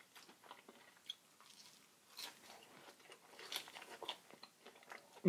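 A person chewing and biting into a flaky, pan-fried Korean red bean pancake (hotteok): faint scattered crunches and mouth clicks, a little busier around two and four seconds in.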